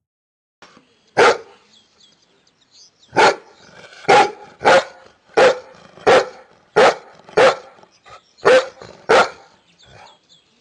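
A dog barking: about ten short, sharp barks, one about a second in, then a run of nine from about three seconds in to about nine seconds in.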